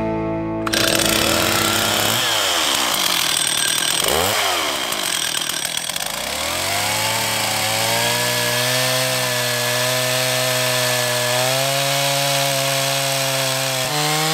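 Two-stroke chainsaw cutting lengthwise along the grain of a log (a rip cut that throws long wood shavings). Its engine speed dips and recovers twice in the first few seconds, then climbs and holds steady at high revs under load until it drops at the end.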